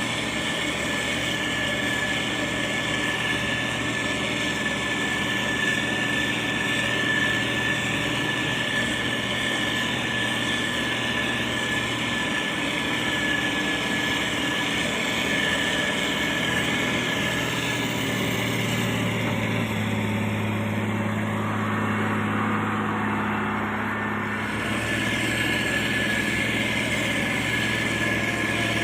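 Motor grader's diesel engine running steadily, with a constant high whine over the engine note. For about five seconds past the middle the engine note changes and the sound dulls, then returns to its earlier steady note.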